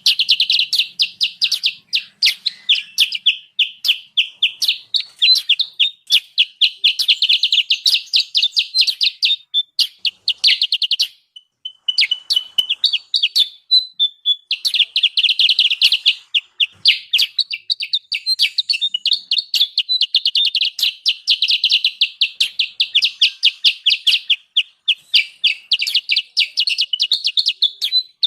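Kutilang sutra lure recording: fast, noisy chattering chirps repeated almost without pause, with a brief break about eleven seconds in. These are the agitated calls played to draw wild kutilang sutra in close.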